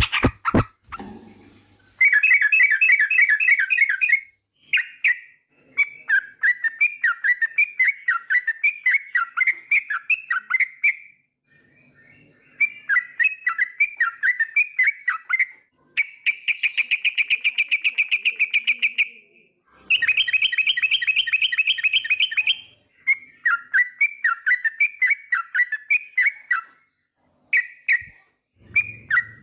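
Yellow-vented bulbul (trucukan) singing: bouts of rapid, bubbly chattering notes, one of them a steadier fast trill, separated by short pauses.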